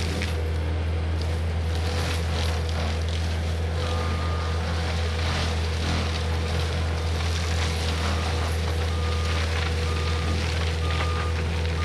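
Cat 259D compact track loader's diesel engine running steadily, with a forestry mulcher working. A short beep sounds about four seconds in, then a run of evenly spaced beeps in the second half.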